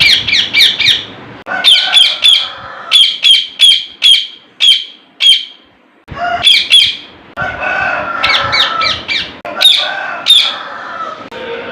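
Pet parrot calling: a rapid run of short, sharp, high calls, several a second, in bursts with a brief pause about six seconds in.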